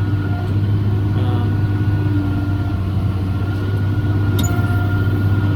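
Tractor engine running at a steady drone while pulling a round baler through the hay, with a faint steady high whine above it.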